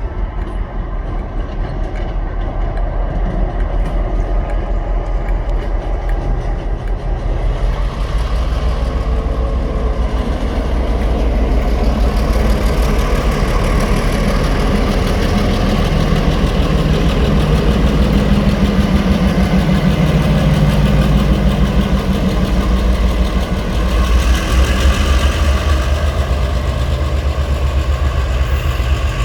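Two diesel-electric locomotives hauling a heavy coal train as it pulls away, their engines working under load in a steady, heavy drone. The sound grows louder and fuller from about eight seconds in as the train comes on.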